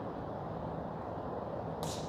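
Steady rushing of a mountain river, with a single short, sharp crack near the end.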